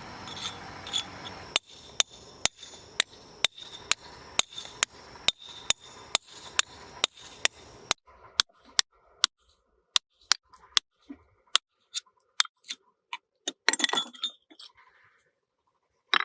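Repeated sharp strikes with a ringing clink, about two a second, beginning about one and a half seconds in after a steady hiss. They grow sparser and irregular in the second half, with one last strike at the end.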